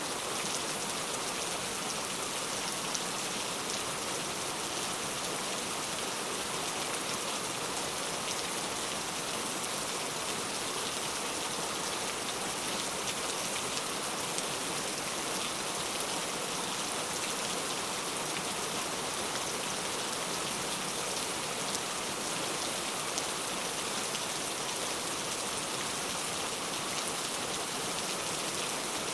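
Steady rain falling and pattering on a surface, a constant hiss of many fine drops without thunder.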